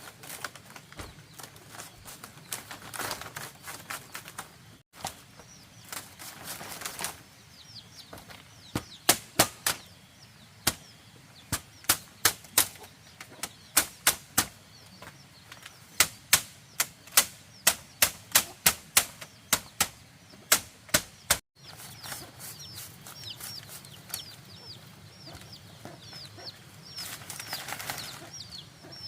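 A rapid series of sharp strikes of a tool on bamboo, about three a second in clusters, from about nine seconds in until a cut near twenty-one seconds. Faint high bird chirps sound in the background.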